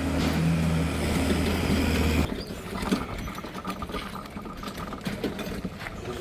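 A steady low machine hum that cuts off about two seconds in, followed by scattered clicks and rattling.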